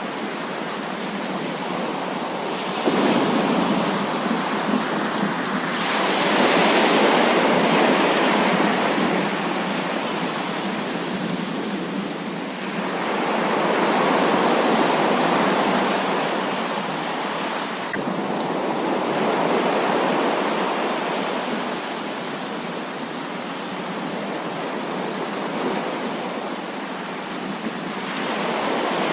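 Heavy rain falling as a steady, dense hiss that swells louder and eases again in slow waves several times.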